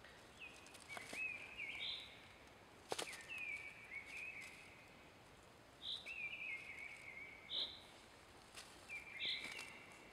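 A songbird singing short phrases again and again over faint forest background, with a few sharp handling clicks. The loudest click comes about three seconds in.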